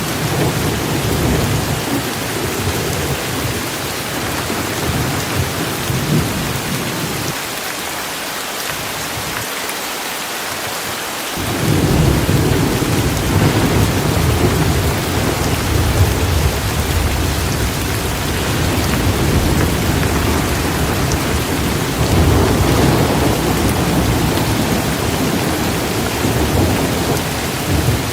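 Steady heavy rain with low rolling thunder rumbling underneath. The rumble dies away about a quarter of the way through, then returns louder a few seconds later.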